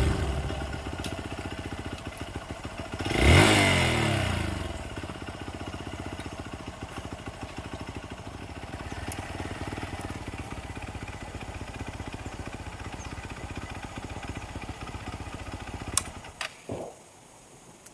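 Single-cylinder engine of a Hero XPulse 200 4V motorcycle idling, with one short rev about three seconds in. The engine stops suddenly near the end, followed by a few clicks and knocks.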